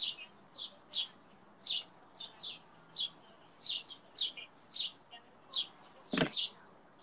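A small bird chirping over and over in short, high chirps, about two a second. About six seconds in there is a single louder knock or bump.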